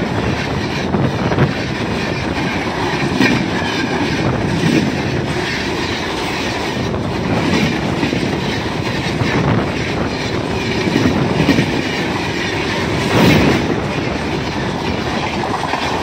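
Indian Railways passenger coaches passing close by, their wheels rumbling on the track with a rhythmic clickety-clack.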